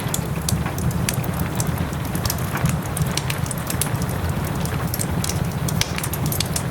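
Wood fire crackling in a fireplace, with frequent sharp pops and snaps over a steady hiss of soft rain and a low rumble.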